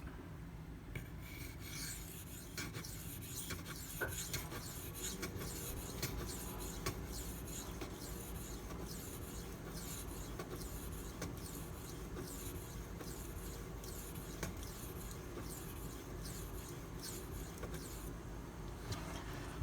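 Maxamet steel knife blade being drawn in repeated strokes across a wet 400-grit Nano Hone sharpening stone, a faint steady scraping. The stone feels slick and is burnishing the steel rather than cutting it.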